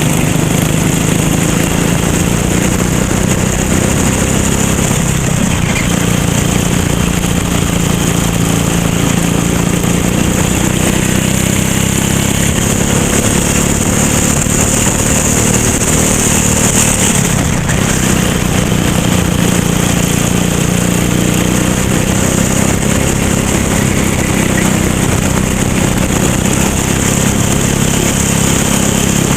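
Racing kart engine running steadily at fairly low, even revs, with only slight rises and falls in pitch.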